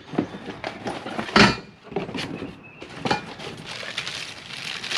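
Metal tools and mower-deck parts knocking and clinking as a new spindle is fitted, with one louder knock about a second and a half in.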